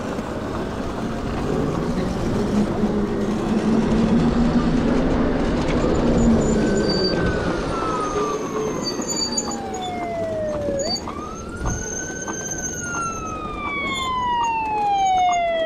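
Emergency vehicle siren wailing. It starts about six and a half seconds in, and each call rises quickly, then falls slowly over about four seconds. Underneath is a steady rush of wind and traffic noise.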